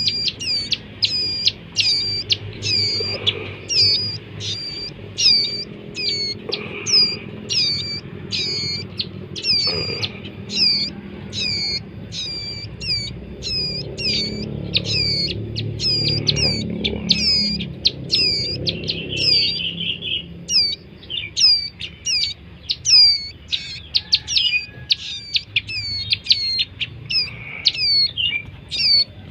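Young ciblek gunung birds giving short, high, falling chirps over and over, about two a second without pause.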